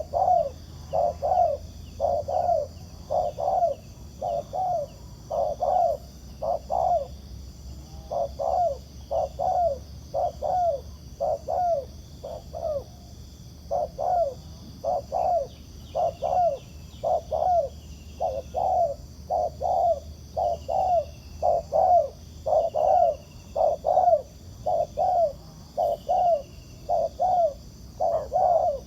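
Spotted doves cooing: short low coos repeated rapidly, about two a second, with brief pauses.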